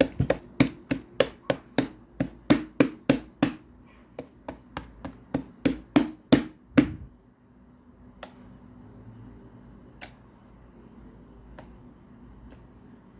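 A quick run of sharp knocks, about three a second, for roughly seven seconds, then a few single clicks spaced out near the end.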